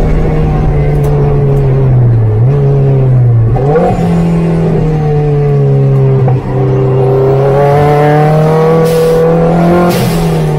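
Opel Speedster's engine revving hard under acceleration on track. About three seconds in the pitch sags and then jumps quickly back up, then climbs slowly and steadily in one gear before dropping near the end.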